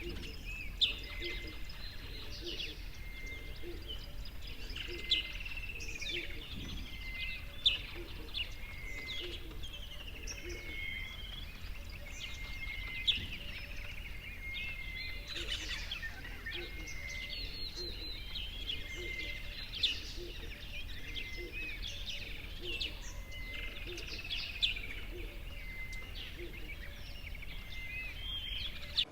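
Several songbirds chirping and singing, many short quick calls overlapping, with a louder sharp chirp standing out every few seconds.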